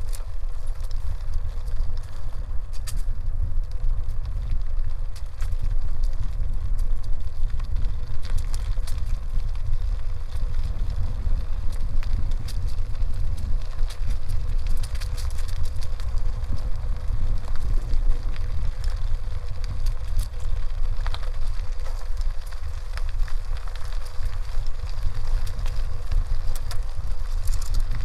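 Wind buffeting the microphone of a bicycle-mounted camera as it rides, with a steady scatter of small crackles and clicks from the tyres rolling over a dirt forest road.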